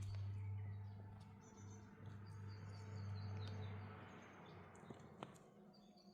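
Faint, short bird chirps over a low steady rumble that fades away about four seconds in, with a single click near the end.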